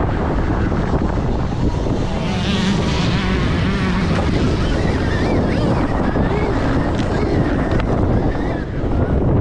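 Wind buffeting the microphone while riding a Stark Varg electric dirt bike, with the electric motor's whine rising and falling as the throttle changes.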